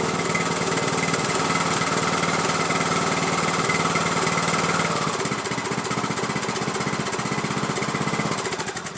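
Craftsman YT3000 lawn tractor engine running steadily, slowing to a lower idle about halfway through, then dying away near the end as it is shut off. The engine is still smoking after an oil change, which the owner puts down to a failing head gasket.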